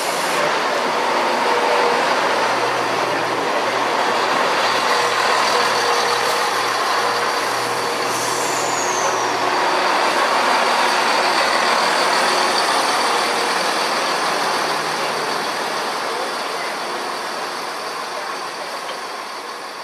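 Class 170 Turbostar diesel multiple unit running into the platform at close range, its underfloor diesel engines and wheels on the rails making a steady loud rumble. A brief falling squeal comes about eight seconds in, and the sound eases slightly near the end as the train slows.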